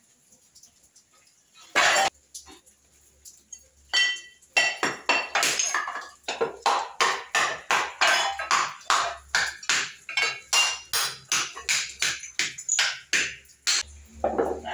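A quick run of sharp clinking knocks, about three a second, of hard ceramic and stone pieces striking each other, like roof-tile shards and stones being worked into a clay pot. One separate knock comes first.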